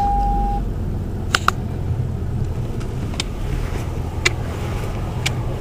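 Steady low rumble of a motor vehicle, with a few light clicks scattered through it. A steady tone cuts off about half a second in.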